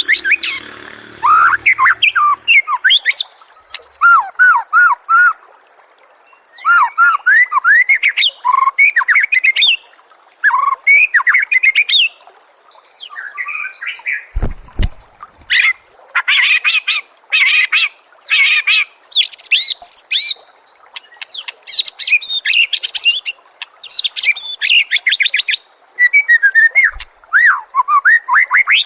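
White-rumped shama (murai batu) singing: varied phrases of rising and falling whistled notes, with bursts of fast, high, rattling trills in the middle stretch. A brief low thump about halfway through.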